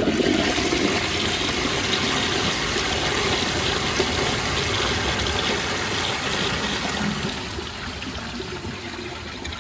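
Glacier Bay Power Flush toilet flushing: a steady rush of water from the tank into the bowl that starts at once and eases off after about seven seconds. The bowl does not siphon, because air escapes through the unplugged vacuum-assist (aspirator) tube and breaks the siphon.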